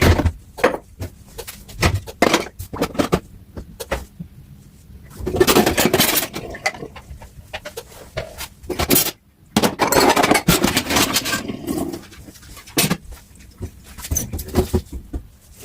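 Dishes and cutlery clinking and knocking in a kitchen sink, with two longer rushes of running tap water, about five seconds in and again about ten seconds in.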